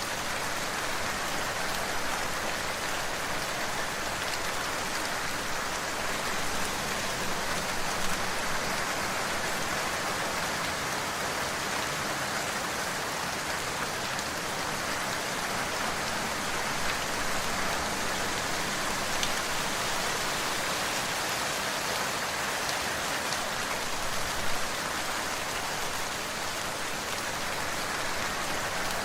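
Steady rain falling: a dense, even hiss of countless drops, with a couple of louder drops standing out briefly.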